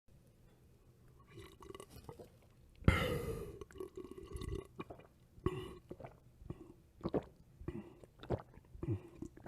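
Drinking sound effects: a long, loud burp with a slowly falling pitch about three seconds in, followed by a run of short gulping swallows, roughly two a second.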